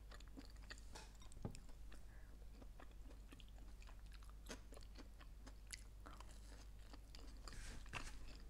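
Faint chewing of a toasted sandwich, close to the microphone: a run of irregular soft clicks.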